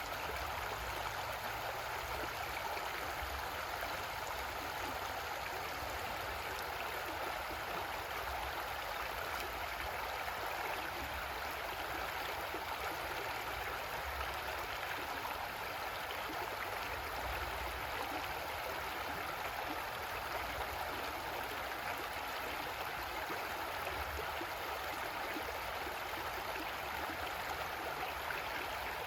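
Creek water flowing over rocks in a steady, unbroken rush.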